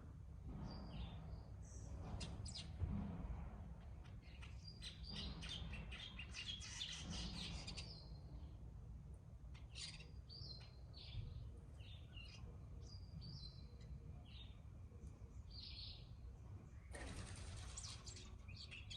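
Several birds chirping and chattering in short calls, with stretches of rapid chatter about a third of the way in and near the end, over a steady low background rumble.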